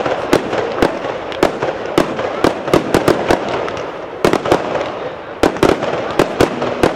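Fireworks display going off: a rapid, irregular string of sharp bangs, about two or three a second, over a continuous noisy wash.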